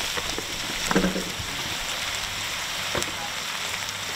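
Chunks of blesbuck meat, onions and mushrooms sizzling steadily in a hot pot, with a couple of sharp clicks, about a second in and near three seconds, from a spoon against the plastic tray as sliced mushrooms are tipped in.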